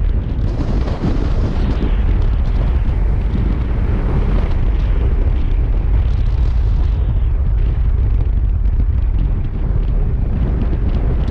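Strong wind buffeting the microphone of a moving motorcycle, a dense low rumble throughout. Its hissing upper part thins out about seven seconds in.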